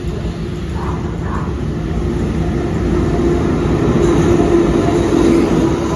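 Diesel-hauled passenger train pulling into the station, its rumble growing louder with a steady low hum that peaks about four to five seconds in, then starting to ease.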